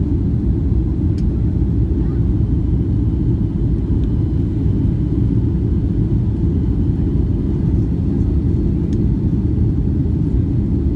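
Boeing 757-200 airliner heard from inside the cabin: a steady low rumble of engines and airframe, even in level throughout.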